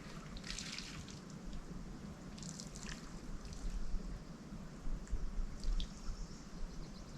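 Water dripping and splashing in a few short, irregular drops over a low steady rumble.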